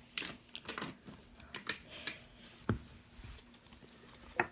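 Fidget spinners being picked up and handled: scattered light clicks and knocks of small hard objects, with a stronger knock a little past halfway and another near the end.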